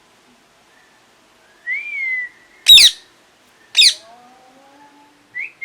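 Indian ringneck parakeet calling: a short whistled note about one and a half seconds in, then two sharp, shrill squawks about a second apart, and a brief whistle near the end.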